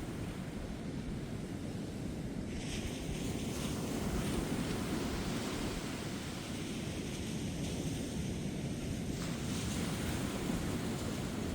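Ocean waves breaking and washing up a beach, a steady rushing noise with wind on the microphone. The hiss of the wash swells about two and a half seconds in and again near the end.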